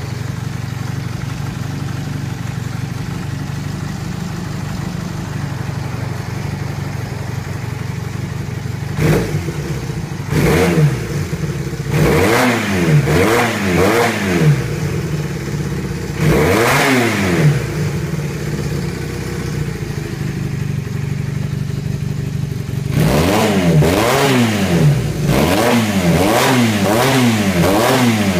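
Honda Hawk parallel-twin motorcycle engine idling steadily, then blipped with the throttle: several single revs from about nine seconds in, and a run of quick repeated revs near the end.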